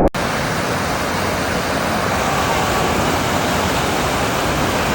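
Steady rush of water running through river rapids.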